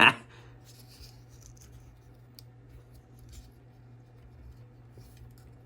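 Faint scratching and light clicks of 3D-printed plastic parts being handled, over a steady low hum.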